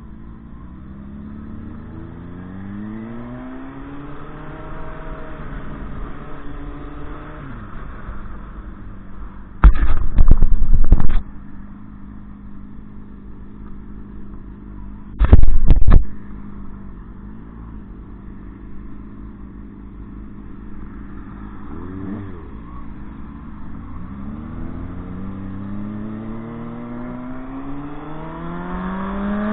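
Motorcycle engine accelerating through the gears, its pitch climbing and dropping back at each shift, climbing again steadily near the end. Two brief, very loud blasts of noise cut in about ten and fifteen seconds in.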